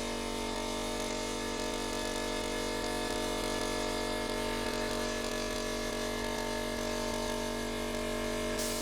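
Restored high-pressure air compressor running, a steady buzzing hum with an even pitch throughout.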